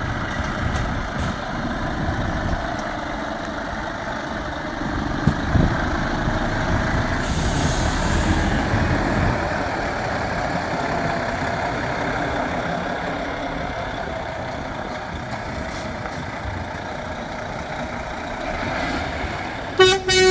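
The 13-litre straight-six diesel of a 2019 Volvo FH460 tractor unit running steadily, most likely at idle. There is a brief hiss a few seconds in, and two short beeps at the very end.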